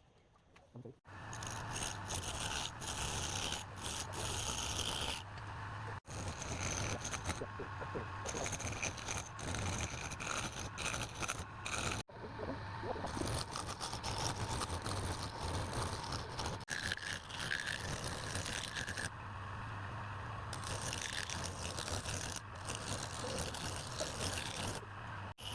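Wood being scraped or rasped by a tool, a continuous gritty scraping over a steady low machine hum, broken by several sudden cuts.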